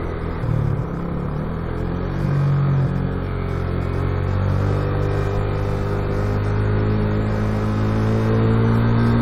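Yamaha Vixion motorcycle's single-cylinder engine running under load while riding, its pitch rising slowly and steadily as it pulls.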